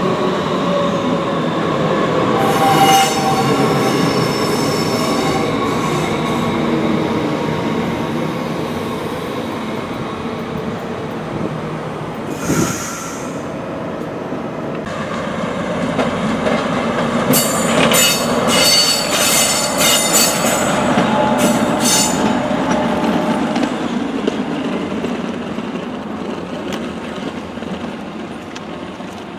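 Red DB S-Bahn electric multiple unit running past on the rails with a steady rumble and a falling whine at the start. Its wheels squeal high-pitched about three seconds in and again in a cluster about two-thirds of the way through, and the sound fades away near the end.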